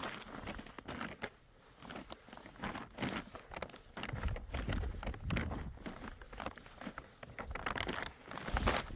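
Plastic sheeting being handled, crinkling and rustling in irregular bursts with scattered small knocks.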